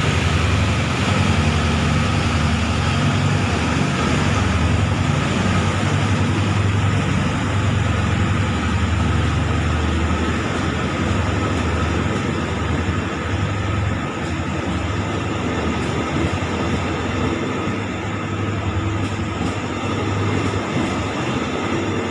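Passenger coaches of a diesel-hauled express train rolling past a station platform, wheels running on the rails with a steady noise. A low drone is strong for about the first ten seconds, then fades.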